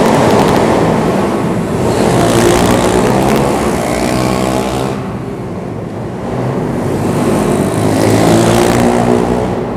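Pit bike engine revving up and easing off twice, its pitch climbing and dropping with each pull.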